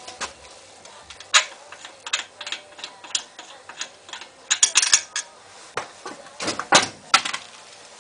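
Metal tools and parts clinking and clanking in irregular sharp knocks, with a quick run of clicks about halfway through.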